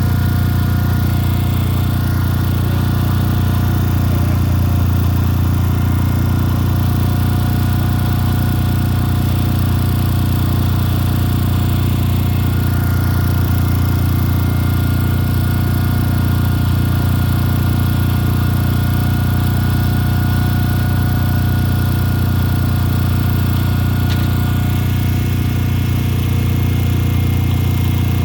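Heavy machinery running steadily with no change: a loud low drone with a few thin, steady whining tones above it.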